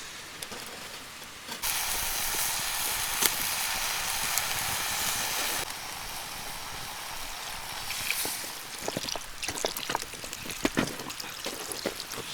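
Food sizzling in a hot pan: a loud sizzle starts suddenly about a second and a half in, drops to a quieter steady sizzle after about four seconds, and is joined by light clicks and taps in the second half.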